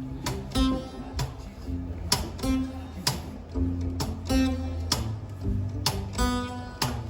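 Band music without singing: acoustic guitar strummed in a steady rhythm over a bass line.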